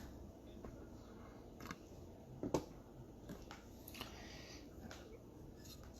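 Faint handling of cardboard trading-card boxes being taken out of their inner case: scattered light taps and rustles, with one sharper knock about two and a half seconds in.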